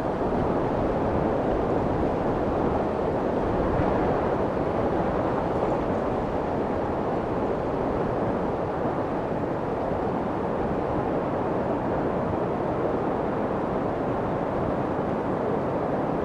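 Continuous white noise for soothing a baby, deep and muffled, with most of its weight low and little hiss on top. It holds steady, without rhythm or change.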